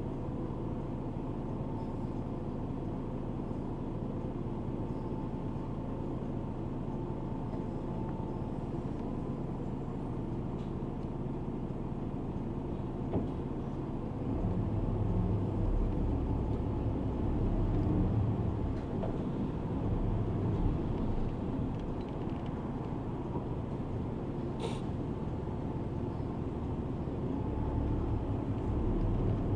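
Inside a city route bus: a steady engine hum and road noise. About halfway through, the low rumble grows louder. Near the end there is one brief high hiss.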